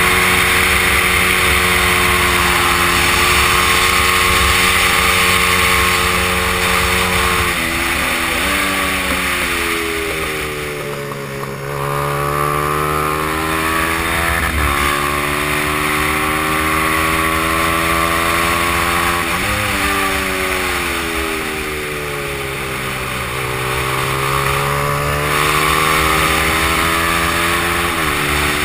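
Honda XR100 mini bike's small single-cylinder four-stroke engine at race pace. It is held at high revs, falls in steps through downshifts about eight to eleven seconds in, then revs up through the gears again with quick pitch drops at each upshift, over steady wind rush.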